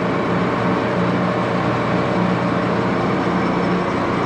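Axelson 14 x 30 heavy-duty metal-cutting lathe running under power: a loud, steady mechanical drone from its motor and headstock, with a steady low hum.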